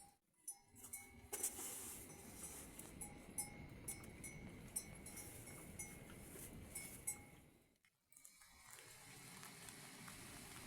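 Steady rain, with a repeated short ringing tone and scattered sharp ticks through the middle part. The sound drops out briefly at the start and again about eight seconds in.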